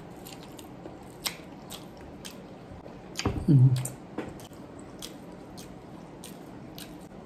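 Close-up mukbang eating sounds: biting, chewing and wet mouth clicks while eating saucy shrimp by hand, with a brief vocal sound, the loudest moment, about three seconds in.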